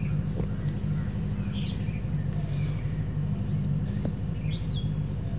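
A few short bird chirps, about one and a half seconds in and again near the end, over a steady low hum.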